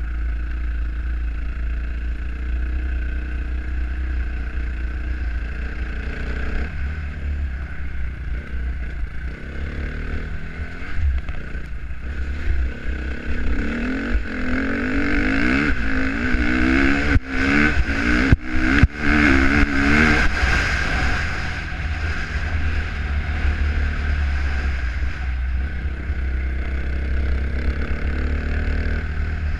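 Dirt bike engine running under load while riding, over heavy wind rumble on the microphone. The engine note rises and revs harder and louder from about halfway through, with a few brief dropouts in the audio, then settles back.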